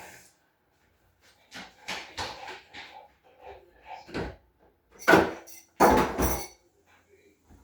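A run of household knocks and clatters, like a drawer, door or cupboard being handled, ending in two loud bangs about five and six seconds in.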